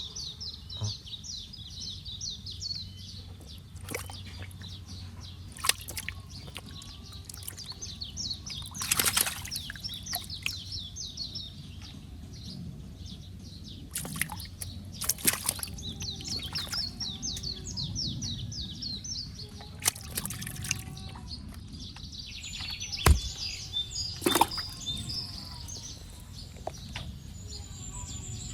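Birds chirping in fast repeated runs over water sloshing and splashing, with scattered sharp knocks and splashes.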